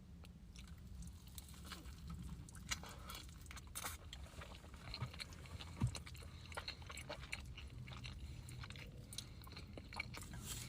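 Close-up eating sounds: quiet chewing and biting, with many small wet clicks and one sharper knock a little past halfway.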